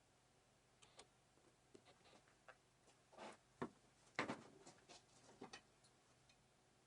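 Faint, irregular clicks and light knocks, with two sharper knocks a little past the middle.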